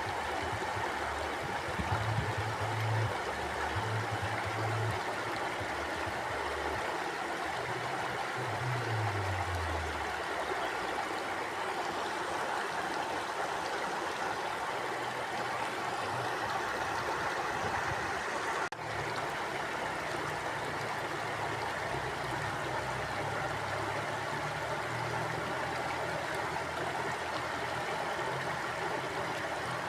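Steady rush and gurgle of a flowing river stream. A faint low hum comes and goes underneath, dropping in pitch once about a third of the way in.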